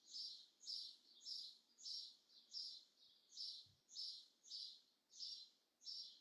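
A small bird chirping faintly over and over in an even rhythm, about one and a half short high chirps a second.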